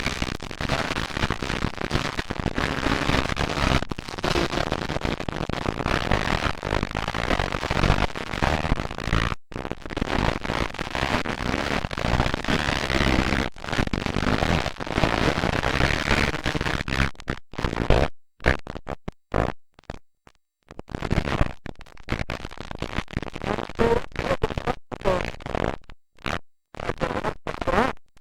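Motocross dirt bike engines, heard as loud, rough noise through a camcorder microphone. In the last ten seconds the sound keeps dropping out in short gaps.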